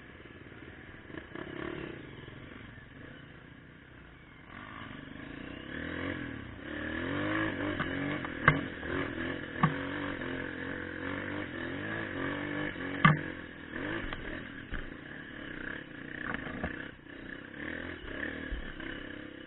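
Trail motorcycle engine revving up and down as it rides over rough ground, quieter for the first few seconds and then louder, with a few sharp knocks along the way.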